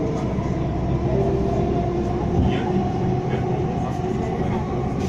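Delhi Metro train running between stations, heard inside the coach: a steady rumble with a constant hum of the motors.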